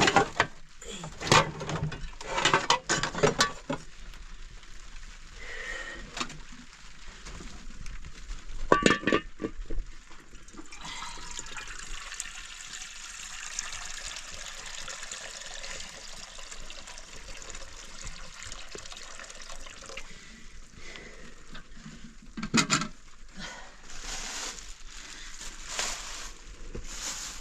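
A few sharp knocks and clatter in the first few seconds and again about nine seconds in, then a steady hiss of water from about eleven seconds on, swelling briefly a few times near the end.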